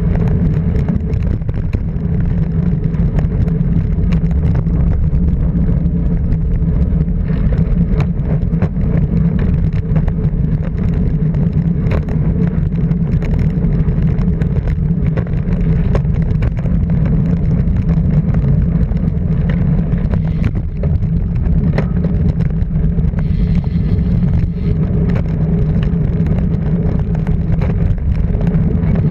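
Rally car's engine running at a steady pitch, with a constant hiss of road and wind noise over it.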